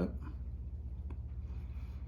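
Steady low hum with a rapid even pulse, and one faint light tick about a second in.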